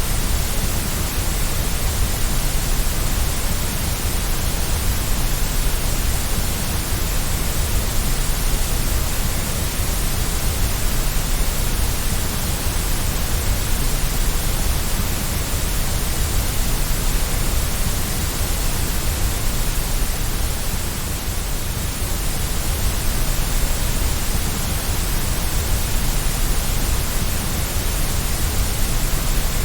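Steady white noise for lulling a baby to sleep: an even, unchanging hiss with a heavy low rumble underneath.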